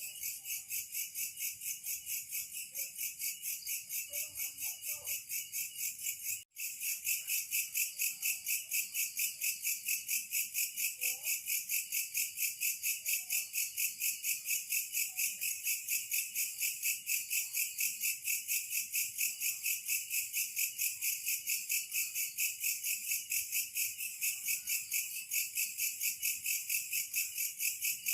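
A chorus of insects, such as crickets or katydids, chirping in a steady high-pitched pulse of about four chirps a second. The sound cuts out for an instant about six seconds in.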